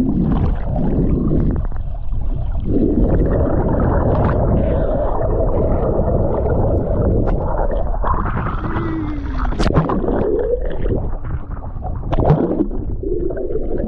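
Wind buffeting the camera microphone ahead of a storm front: a loud, steady low rumble.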